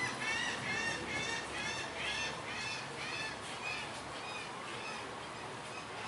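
A bird calling over and over, a short arched call about two or three times a second, fading out after about four seconds.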